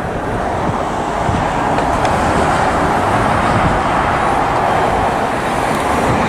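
Jet airliner engines at takeoff power during the takeoff roll: a loud, steady roar that builds slightly.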